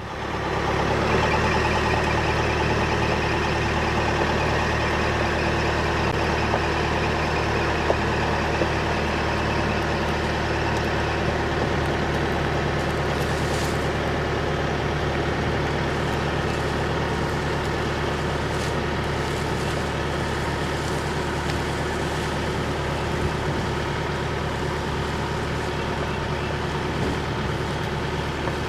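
Tractor engine running steadily at a constant low speed, with an even, unchanging drone.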